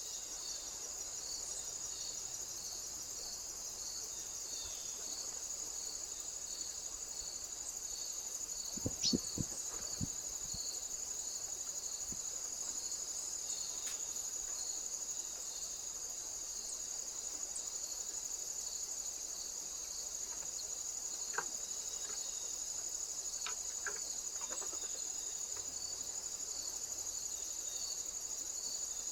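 Insects chirring steadily in a high, continuous chorus with a regular pulsing chirp running through it. A few dull knocks come about nine to ten seconds in.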